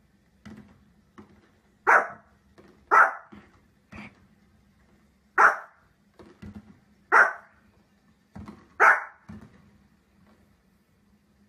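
A dog barking: five loud single barks spaced about one to two seconds apart, with quieter short sounds between them.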